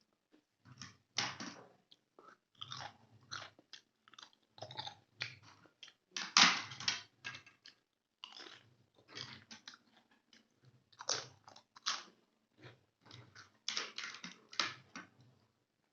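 Close-miked eating of chicken gravy and rice: wet chewing and smacking mouth sounds in irregular bursts with short pauses between them, loudest a little past the middle.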